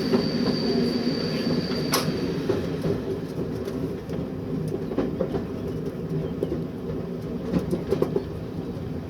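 Train running along the line heard from inside the driver's cab: a steady engine drone with a thin high whine in the first couple of seconds, and a few clicks from the wheels over the rail later on.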